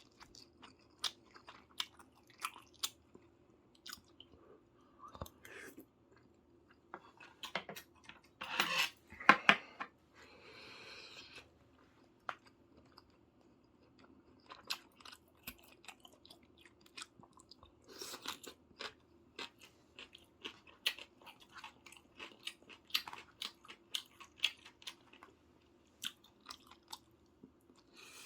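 A person eating close to the microphone: chewing and biting with many small wet clicks and smacks, louder for a few seconds about eight seconds in. A faint steady hum runs underneath.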